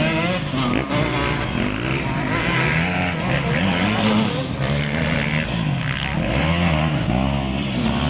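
Several dirt-bike engines racing together, their pitch rising and falling over and over as the throttles are opened and closed.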